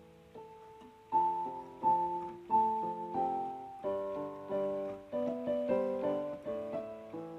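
Background music: soft piano playing slow melodic notes and chords.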